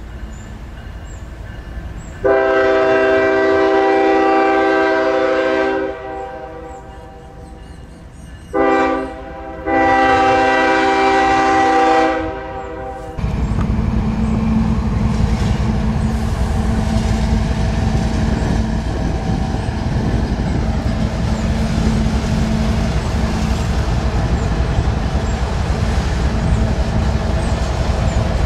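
Union Pacific diesel locomotives' multi-note air horn sounding a long blast, then a short one and another long one. After that comes a steady heavy rumble of the locomotives' diesel engines and the loaded coal train's wheels as it rolls slowly across a steel bridge.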